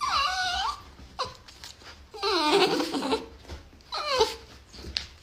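Dog whining and yowling in three short, pitch-bending vocal bursts.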